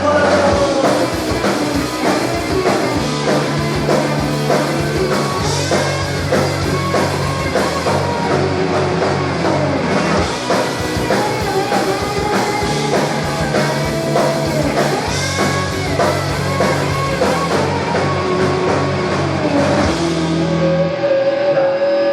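Live rock band playing: electric guitar with bending lead notes over bass guitar and a drum kit.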